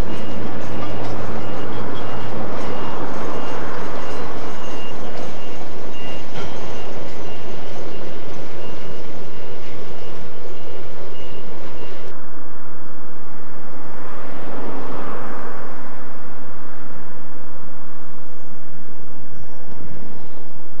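Freight wagons rolling past on the rails with a loud, continuous rumble of wheels and a faint steady high whine. About twelve seconds in it cuts abruptly to a duller steady rush, which swells briefly a couple of seconds later.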